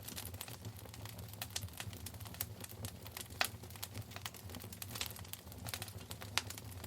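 Wood fire burning in a fireplace, with irregular sharp pops and crackles over a low, steady rumble of the flames.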